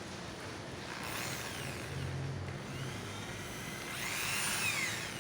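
Electric drill drilling holes, run in two spells: about a second in and again near the end. Its whine rises and falls in pitch as it speeds up and winds down.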